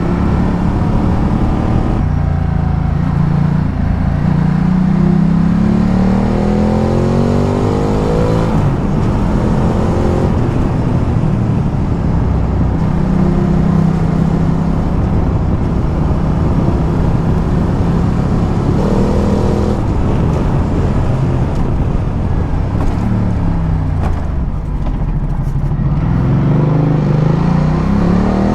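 Ducati Multistrada 1200's L-twin engine under way, its pitch rising several times as the bike accelerates and dropping back at gear changes and as it eases off. Wind and road noise run underneath.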